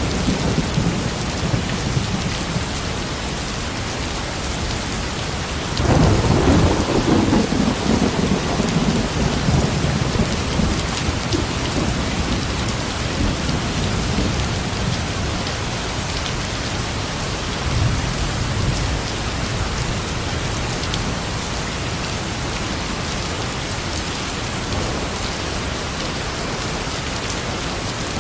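Steady heavy rain, with a roll of thunder breaking in about six seconds in and rumbling away over several seconds, and a fainter rumble later.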